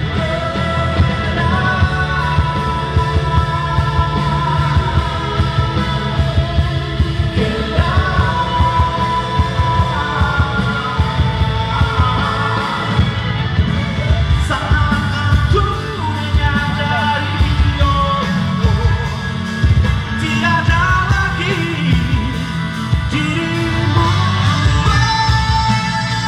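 Pop-rock band music with singing over a steady beat.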